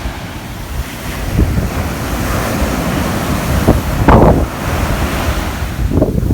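Rough ocean surf breaking on the shore, a wave crashing loudest about four seconds in, with wind buffeting the microphone.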